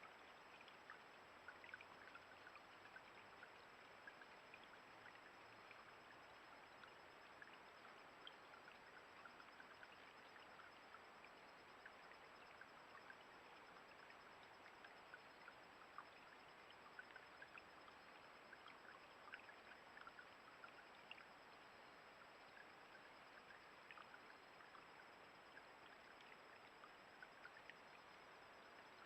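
Faint running water of a shallow creek trickling: a steady wash with many small splashes and droplet ticks throughout.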